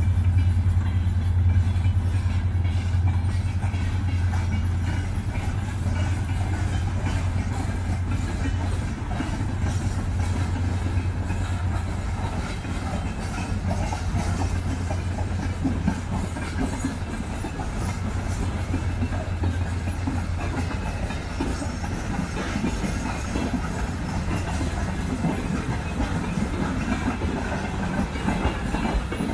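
A freight train of tank wagons passing behind a twin-section diesel locomotive. The locomotive's low engine drone is strongest at first and fades over the first half as the steady rumble and clatter of the wagon wheels on the rails take over.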